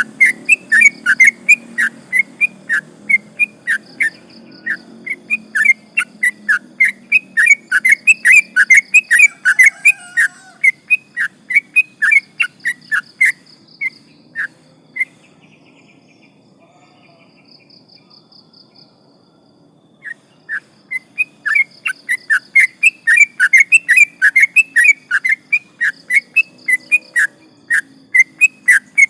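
Yellow-vented bulbul singing a long run of short, loud whistled notes, three or four a second. It falls silent for several seconds midway, then starts again just as fast.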